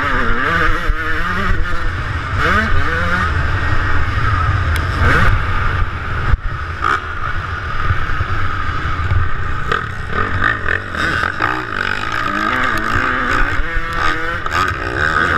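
Two-stroke motocross bike engine revving up and dropping back again and again as it is ridden around the track, with wind noise on the microphone.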